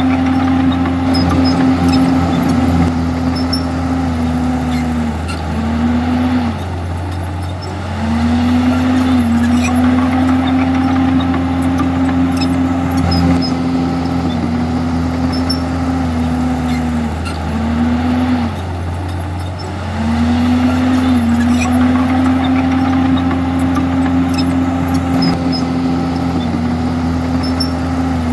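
Diesel engine of a Komatsu D51EX bulldozer running hard at steady high revs. Its pitch sags and the sound drops twice, once about five seconds in and again near two-thirds through, for a few seconds each time, before climbing back up.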